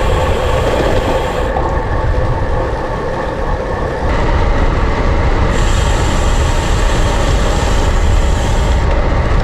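Wind noise buffeting a GoPro's microphone while cycling: a loud, steady rushing rumble, heaviest in the low end, whose upper hiss drops away and comes back a couple of times.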